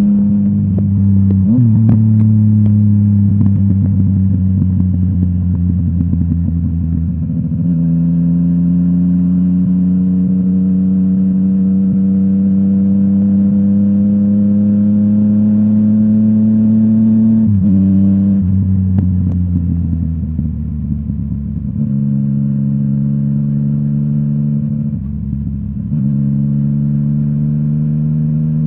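Yamaha MT-09's three-cylinder engine through a full Akrapovic exhaust, running under load. The note climbs slowly and then drops sharply a few times, most clearly about 17 seconds in, as gears change. The throttle eases briefly twice near the end.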